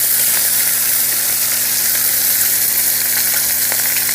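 Lamb ribs sizzling steadily on the hot steel top of a homemade gas-cylinder wood stove, with faint pops of spattering fat.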